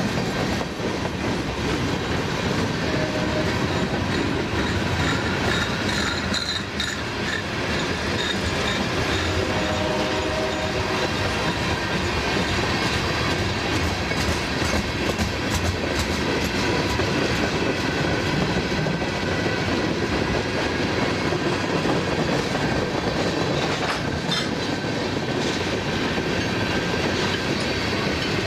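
Freight cars (covered hoppers and tank cars) rolling steadily past on jointed track, wheels clacking over the rail joints, with a few brief faint wheel squeals.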